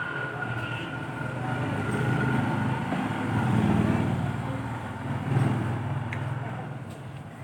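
A passing motor vehicle's engine rumble, swelling about halfway through and fading toward the end.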